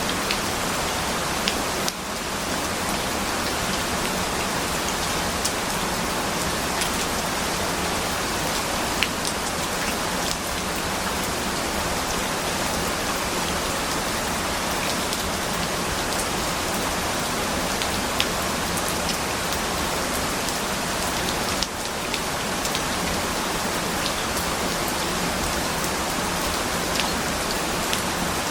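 Steady heavy rain falling, a dense even hiss with scattered individual drop ticks, dipping briefly twice.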